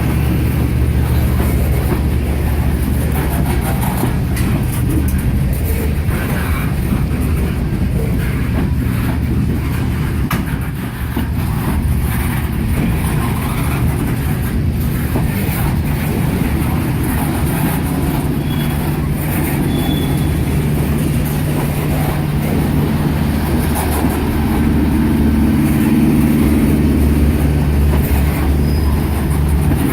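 Freight cars of a slow CSX manifest train rolling past, with a steady low rumble and irregular clicks and knocks from the wheels on the rails.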